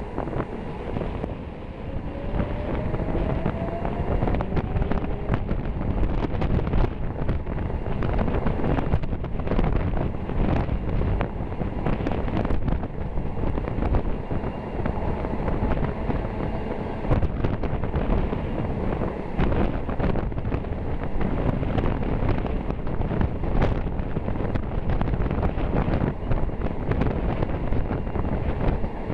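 Moving passenger train heard from an open window: wind buffeting the microphone over the running rumble, with irregular knocks and clacks of the wheels crossing rail joints and points. A faint whine rises in pitch during the first few seconds.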